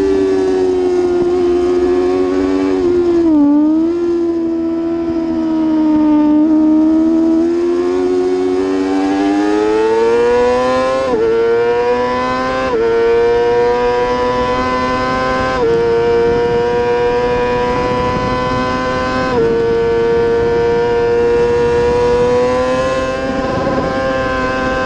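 Racing motorcycle engine at high revs. The pitch dips a few seconds in as the bike slows for a corner, then climbs through four upshifts, each a sudden drop in pitch, and holds steady near the end.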